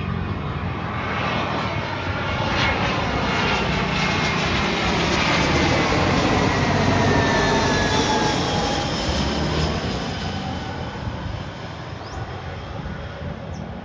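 Jet airliner passing overhead. Its engine noise swells to a peak about halfway through and then fades, with a whine that drops in pitch as it goes by.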